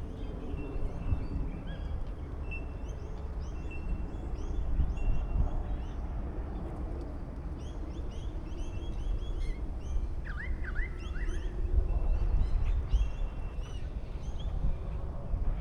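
Several small birds chirping and whistling in short, repeated calls, with a brief burst of lower swooping calls about ten seconds in, over a steady low rumble.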